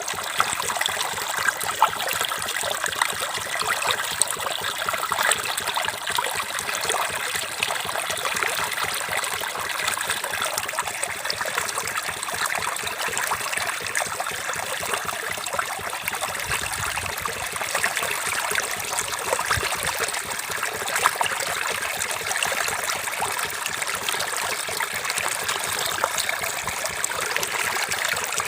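Running water trickling and splashing steadily, a continuous bubbling with many small splashes.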